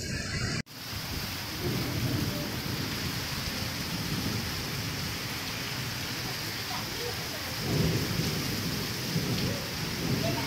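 Heavy monsoon downpour falling steadily on tiled roofs and running off the eaves, with a low thunder rumble swelling about eight seconds in. The sound cuts out for an instant just after the start, then the rain resumes.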